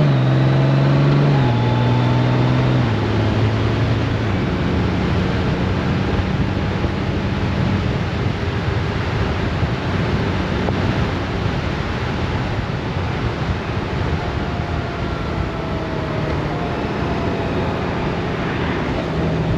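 Honda Gold Wing DCT's flat-six engine under way, with heavy wind and road noise. Its note drops in three steps in the first few seconds, then holds steady under the rush of wind.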